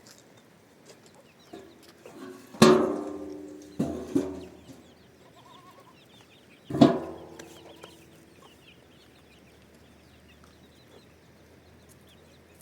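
Chicken calls: a loud call with a trailing tail about two and a half seconds in, two shorter calls just after, and another loud call about seven seconds in.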